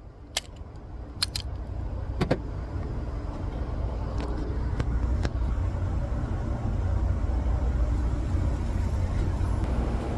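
A steady low mechanical rumble that grows a little louder, with a few sharp clicks and knocks in the first couple of seconds and faint ticks a few seconds later.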